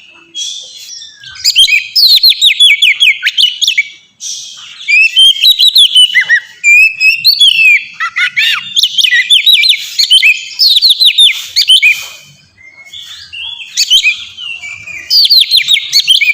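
Oriental magpie-robin (kacer) singing loud, varied phrases of rapid whistles and trills in four bursts with short pauses between them. This is the open, full-voiced 'ngeplong' song.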